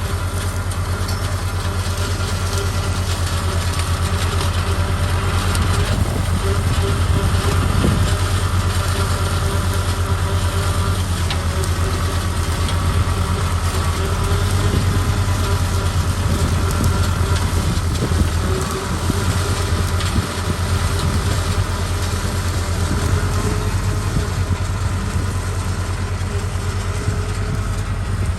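Small tractor running steadily with a Trident flail mower working behind it, a continuous engine drone with a few steady tones from the driveline and rotor above it.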